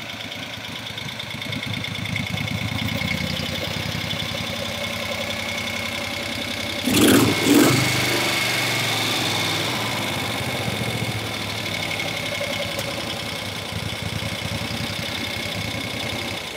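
1971 Moto Guzzi Ambassador's V-twin engine idling after a carburettor tune-up. The throttle is blipped twice in quick succession about seven seconds in, then the engine settles back to idle. The owner says it still pops a little and needs more tuning.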